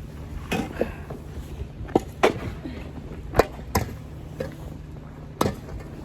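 Snow shovel blade knocking and scraping on pavement, about six sharp hits spaced irregularly over a few seconds, with a steady low rumble of wind on the microphone.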